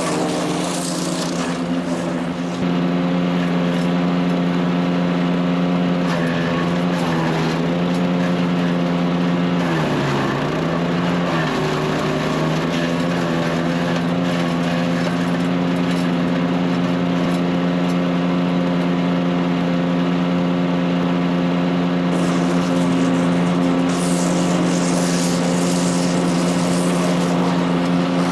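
Power King wood chipper shredder running on its Kohler CH440 14 HP single-cylinder engine, held at a steady speed. About ten seconds in the engine pitch sags and then recovers, as it bogs briefly under load. Near the start and again near the end there are bursts of hissy noise over the engine.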